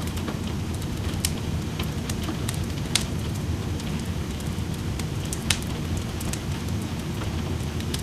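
Wood fire crackling in a fireplace, with scattered sharp pops, the loudest about one, three and five and a half seconds in, over a steady low wash of rain.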